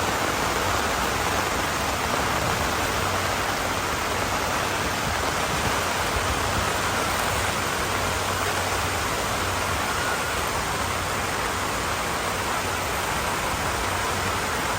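Steady rushing water: an even, unbroken noise that holds level throughout.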